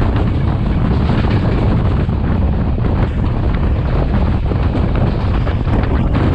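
Class S13 diesel multiple unit running, a steady loud rumble with wind buffeting the microphone.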